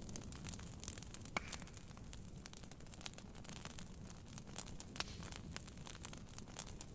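Wood fire crackling, with irregular sharp pops and snaps, a couple of them louder about a second and a half in and at about five seconds, over a steady low hiss of rain on a tent.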